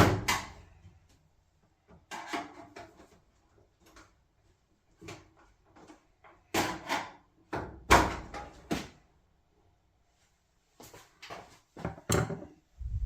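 Irregular knocks, clicks and clatters of hand work on a clothes dryer's sheet-metal cabinet, a screwdriver prying at the panel clips. The loudest knock comes right at the start.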